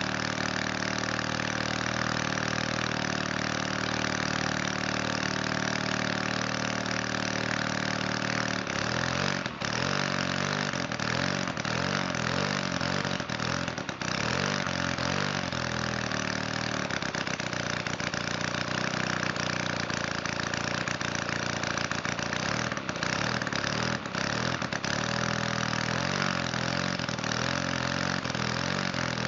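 Valach 170cc two-stroke model aircraft engine running steadily, then from about eight seconds in its speed wavers and stumbles unevenly. It is running very rich, on both its needle settings and a 25:1 fuel-oil mix.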